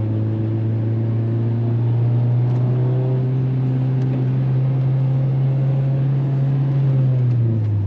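Honda Civic engine pulling under hard acceleration, a steady drone slowly rising in pitch for several seconds, then falling away near the end. The driver says the clutch is out and the car feels rough.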